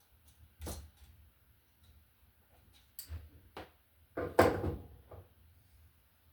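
Handling clicks and knocks from wiring a wall receptacle: tools, wire and the outlet being worked by hand. There are about five separate strokes, the loudest with a short ring a little past the middle.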